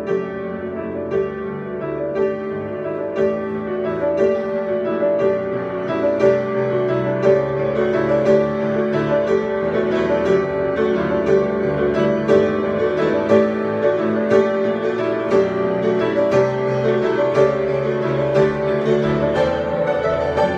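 Piano improvisation: sustained chords and melody with a new note or chord struck about once a second, growing gradually louder.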